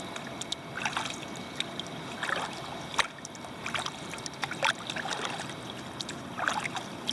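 Kayak paddle dipping into flat lake water, with a splash and dripping at each stroke about every one to two seconds. A sharp click about three seconds in.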